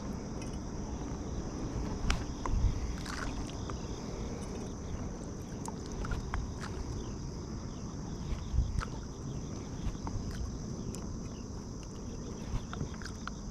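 A steady, high insect chorus of crickets trilling, over a low wind rumble on the microphone. Scattered light knocks and clicks sound from the kayak and fishing gear, a few close together about two to three seconds in and another near the middle.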